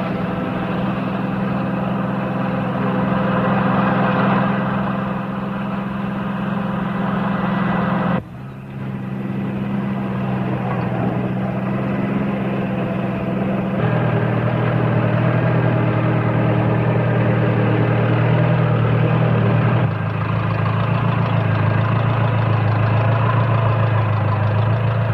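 Farm tractor engine running steadily, with a brief break about eight seconds in and its note shifting lower twice later on.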